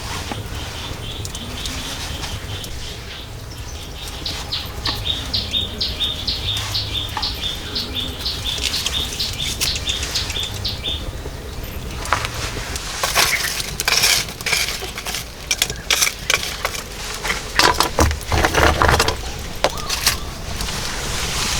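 A bird calling in a long series of short, repeated high notes, followed by a run of loud knocks and scrapes from work on the shelter.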